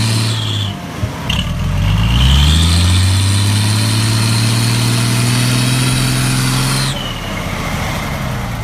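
Wood truck's engine revving hard under load as it tries to drive out of deep mud with its wheels spinning. It eases off about a second in, climbs steeply and holds at high revs, then drops back near the end, with a high whine rising and falling along with it.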